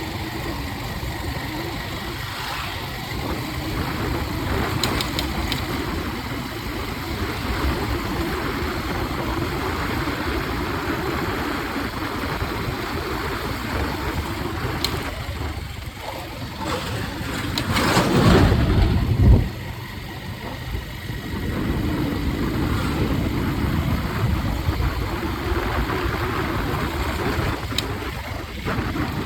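A vehicle's engine running steadily under a wash of noise. A louder swell builds and peaks about nineteen seconds in, then drops off suddenly.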